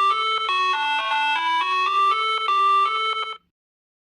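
Short electronic jingle: a bright, ringtone-like tune of quick stepped notes, about four a second, that stops abruptly about three and a half seconds in.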